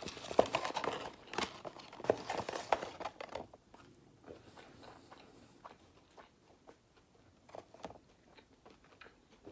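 Close-up chewing of a mouthful of food, with a cardboard burger box being handled and folded shut. The crackling is dense and loudest for the first three seconds or so, then thins to occasional soft mouth clicks.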